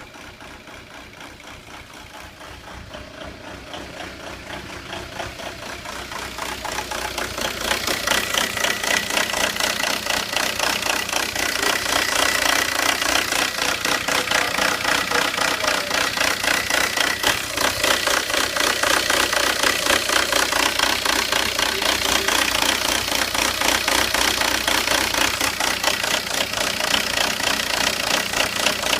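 2002 VW Jetta TDI's four-cylinder turbodiesel idling roughly with an even diesel clatter, the revs wandering up and down a little. It grows louder over the first eight seconds or so, then holds steady. The rough idle goes with fault code 17970, quantity adjustment upper limit reached, which the owner puts down to a problem with the injection pump.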